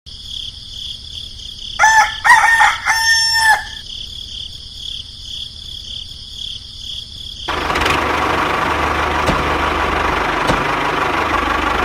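A rooster crows once, about two seconds in, over a steady high-pitched whine. About seven and a half seconds in, the whine cuts off and a loud engine starts running steadily.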